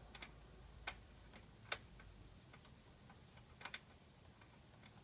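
Near silence broken by a few faint, sharp clicks and taps: one about a second in, a louder one near the middle, and a quick pair about three and a half seconds in. A faint low hum fades out about halfway through.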